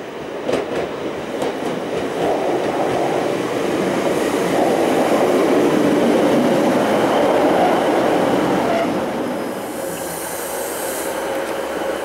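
Diesel multiple-unit passenger train pulling into a station platform. A few sharp clicks come early, then its running and wheel noise builds to a peak as the carriages pass. The noise eases about nine seconds in as it slows, leaving a steady hum with a brief hiss.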